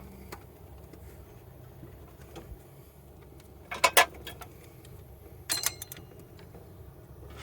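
Two short clusters of sharp clicks and clinks, about halfway through and again a second and a half later, from metal parts and tools being handled while a timing belt tensioner is positioned.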